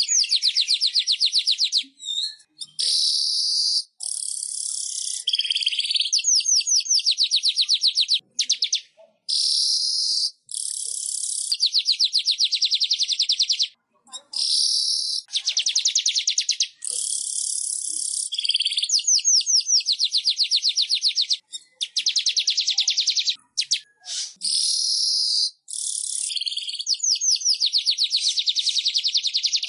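Weaver bird (manyar) song: high, buzzy hissing chatter alternating with fast rattling trills, in phrases of one to three seconds separated by brief pauses.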